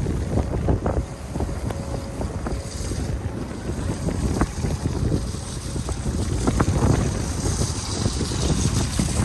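Storm wind buffeting the microphone: a loud, uneven low rumble that swells and eases in gusts, with a few small clicks over it.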